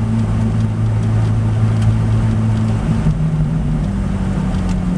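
Ferrari F430's V8 engine running at low, steady revs, heard from inside the cabin as the car rolls slowly. About three seconds in, the engine note steps up in pitch.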